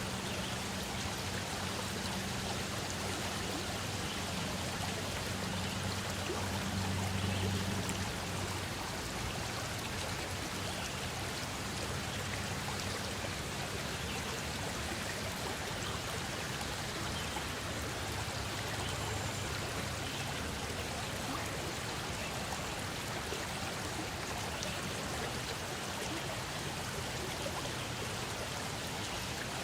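A stream of running water, a steady rushing. A low hum lies underneath, strongest for the first eight seconds or so and fainter after.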